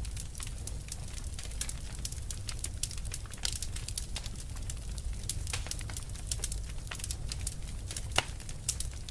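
Wood fire burning with irregular sharp crackles and pops over a low steady rumble of the flames, one louder pop near the end.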